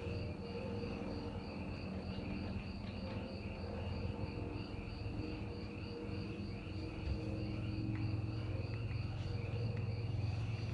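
Crickets chirping steadily over a low steady hum, which grows louder in the second half.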